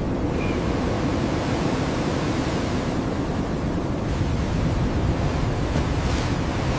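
Steady blizzard wind, an even rushing noise heaviest in the low end.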